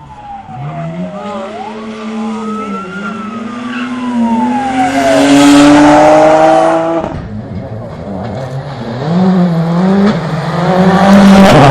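Rally car engine revving hard as the car comes through the stage, its pitch climbing and stepping with gear changes, and tyres skidding as it drifts. It is loudest about halfway through, cuts off abruptly about seven seconds in, then revs up again with a gear change near the end.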